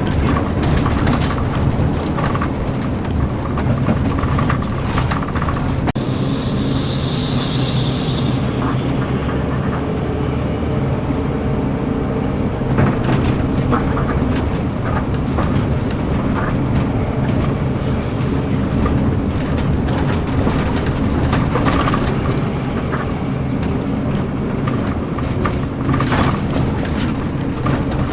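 A moving bus's engine running steadily with road noise and scattered rattles. A brief high tone sounds about six seconds in.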